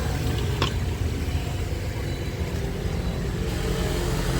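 Road traffic on a busy city street: a steady low rumble of vehicle engines going by, with one short click a little over half a second in.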